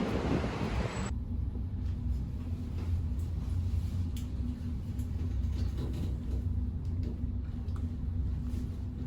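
Low, steady rumble of a moving vehicle with a faint steady hum in it. About a second in, a brighter, hissier noise cuts off abruptly and the rumble continues alone.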